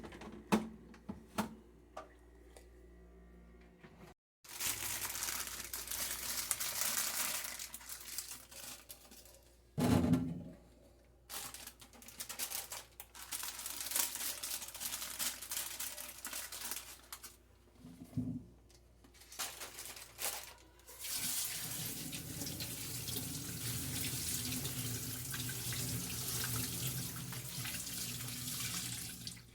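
Water running from a tap into a sink in several long stretches, stopping and starting, after a few sharp knocks in the first seconds.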